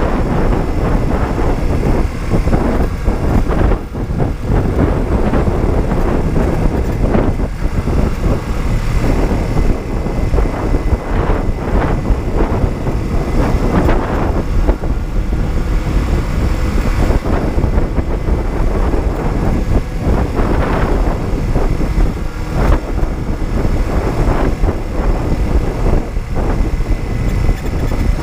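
Honda CB125T's air-cooled parallel-twin engine running steadily while the motorcycle is ridden, with wind noise on the microphone.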